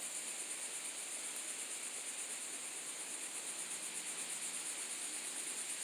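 Cicadas calling in a steady, high-pitched chorus with a fast, even flutter.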